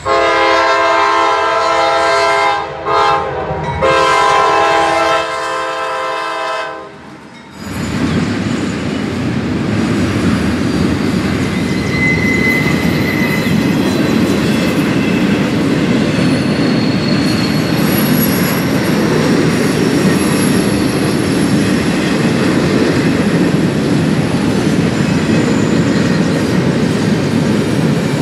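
A CSX freight locomotive sounds its chime horn in three blasts over about the first seven seconds, a long one, a short one and another long one. The horn then stops and the train's cars roll past in a steady rumble.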